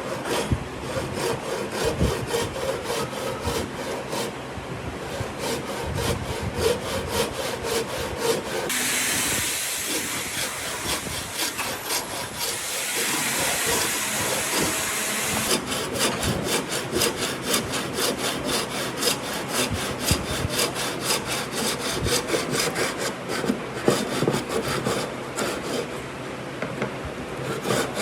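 Wood being worked by hand in quick, evenly repeated strokes, like sawing or rasping. Through the middle stretch the strokes give way to a steadier hiss.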